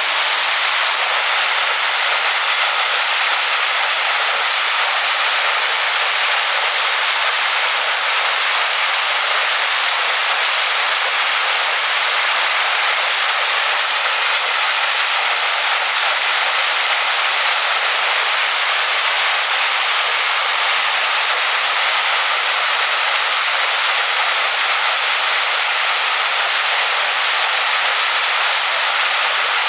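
Waterfall splashing onto stones: a steady, unbroken rush of water, bright and hissy, with almost no low rumble.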